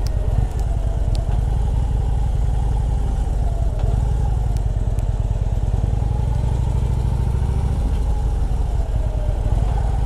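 Harley-Davidson motorcycle's V-twin engine running steadily as the bike is ridden along, a continuous low, pulsing engine note with small rises and falls in pitch.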